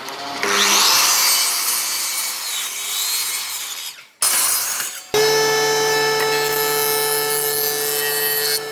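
Wood being sawn or rasped, a dense scraping noise for about four seconds. After a short break, a power tool's motor starts and runs with a steady whine.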